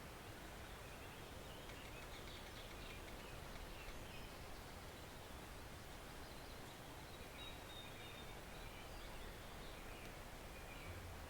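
Woodland stream flowing, a soft steady rush of water. Faint high bird calls come in about two seconds in and again through the second half.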